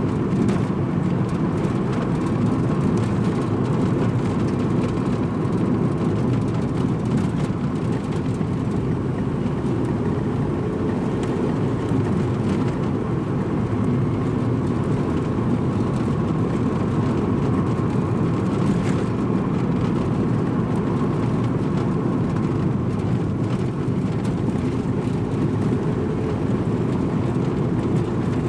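Strong wind blowing across the microphone: a loud, steady low rumble that does not let up.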